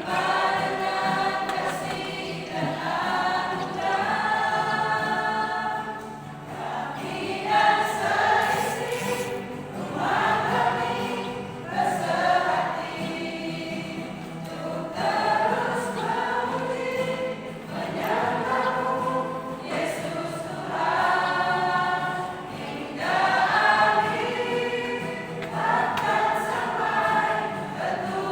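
A church choir singing a Christian praise song, in phrases of a few seconds with long held notes.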